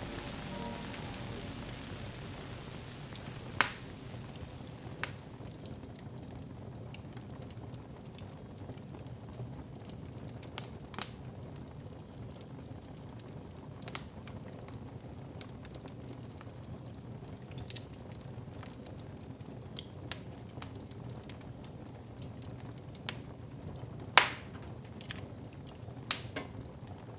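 Wood fire crackling in a fireplace: a low, steady rush of flame with irregular sharp pops, two loud ones a few seconds in and near the end.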